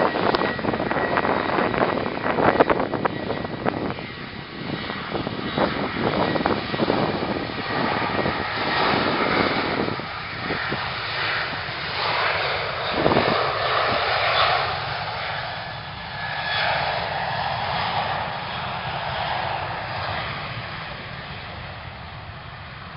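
Airplane engines as an aircraft passes, loud at first with a thin steady whine, then slowly fading away over the second half.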